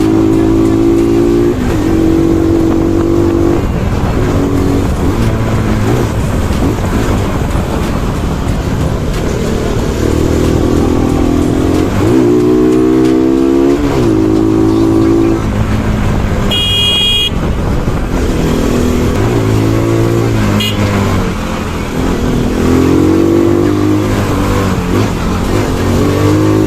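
Bajaj Pulsar NS200's single-cylinder engine on the move, its pitch climbing and dropping again and again as it is revved through the gears, under steady wind and road noise. A brief horn toot sounds about two-thirds of the way through.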